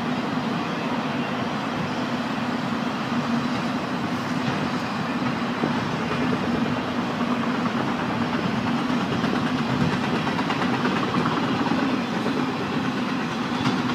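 A train rolling past, its steady rolling noise carrying a constant low hum without letup.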